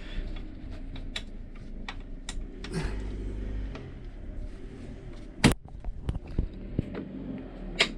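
Scattered clicks and light knocks of tools and bolts being handled while the rear mudguard bolts are fitted, with one sharp knock about five and a half seconds in.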